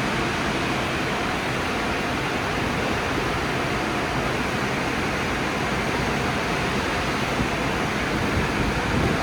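Conveyor tunnel car wash equipment running with a steady, even rushing noise, with no separate knocks or tones.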